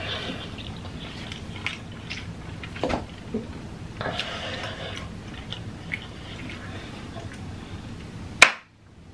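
Close-miked chewing of a large mouthful, with wet mouth clicks and smacks. A sharp click about eight and a half seconds in, then a brief drop to near silence.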